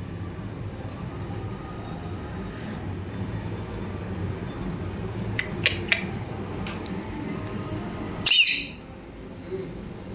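Pet parrot giving a few short chirps about halfway, then one loud, harsh squawk near the end, over a steady low background noise.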